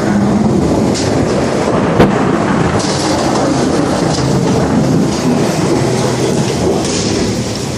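Long, loud rolling rumble of thunder from a nearby lightning strike, with a sharp crack about two seconds in.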